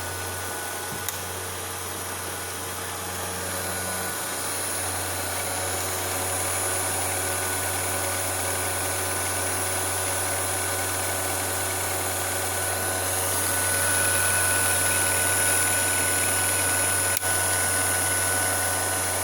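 KeyStone CC-8 8mm projector running: its brush motor and film mechanism make a steady mechanical whir with a high whine, growing gradually louder through the first two-thirds. A small click about a second in.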